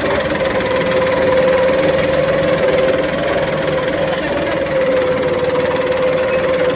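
Tractor's diesel engine running steadily at a constant speed, its pitch holding nearly level with a slight dip in the middle.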